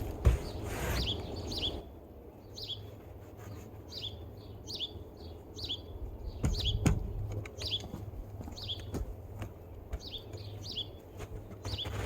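Small birds chirping over and over, short downward chirps one or two a second. A scraping noise runs through the first two seconds, and there is a single low thump a little past the middle.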